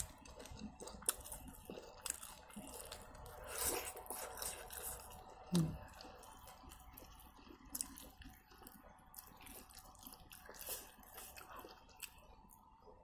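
Close-miked mouth sounds of a person eating instant noodles: wet chewing with soft squishy smacks and small clicks, and a breathy burst about three and a half seconds in.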